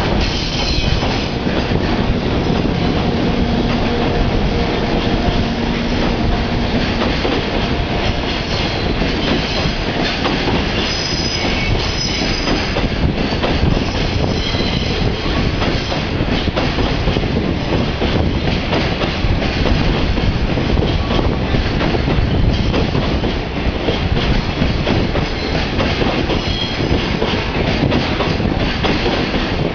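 JR Freight container train rolling past: continuous steady wheel-on-rail noise, with high-pitched wheel squeal coming and going several times.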